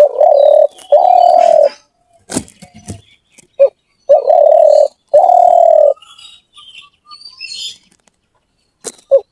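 A dove cooing: a short note followed by two long coos, the phrase repeated, with a new phrase starting near the end. Small birds chirp faintly between the phrases, and there are a few sharp clicks.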